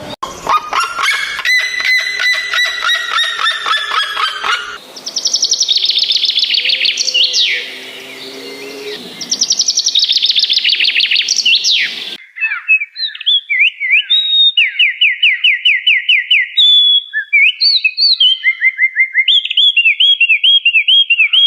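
Bird calls and song in three different stretches that change sharply about five and twelve seconds in: a repeated call with clicking, then high rapid calls, then a varied run of trills and repeated whistled notes.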